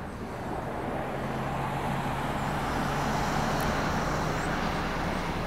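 Tank cars at the tail of a CSX mixed freight train rolling past on steel wheels: a steady rolling noise of wheels on rail, with a low steady hum under it that ends about four and a half seconds in.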